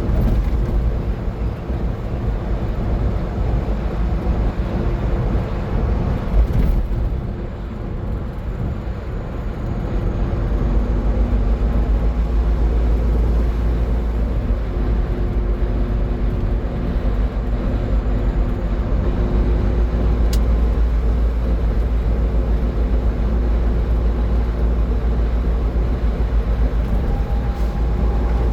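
A car driving at highway speed: steady road and engine noise with a deep rumble and a faint hum, easing briefly about a quarter of the way in, with a single small tick later.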